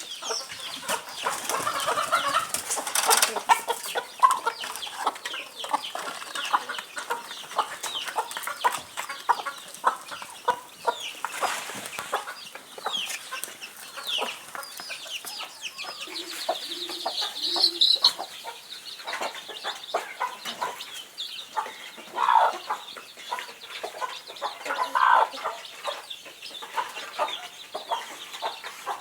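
A flock of indigenous kienyeji chickens clucking and calling while they feed, with many short taps throughout and a few louder calls standing out.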